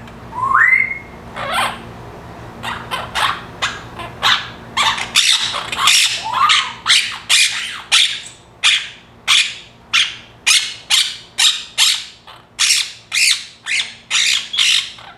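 Pet parrot calling: a few rising whistles, then a long run of short, harsh squawks repeated about two a second.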